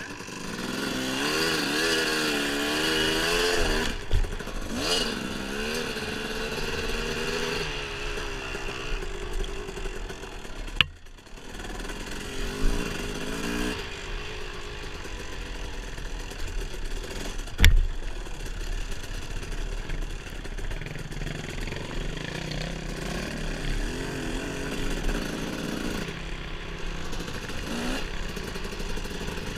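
Dirt bike engine revving up and down as it is ridden over a trail. A few sharp knocks cut through it, the loudest about eighteen seconds in.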